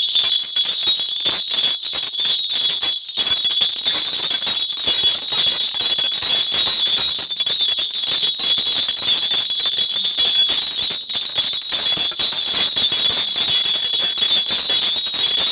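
A Korean shaman's bell rattle (a cluster of small brass bells on a handle) shaken continuously in fast, steady jingling, as done while divining by calling on the spirits.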